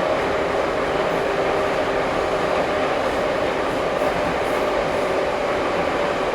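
Ezh3 Moscow metro train running at speed between stations, heard from inside the car: a steady rumble of wheels and running gear with a constant whine held at one pitch.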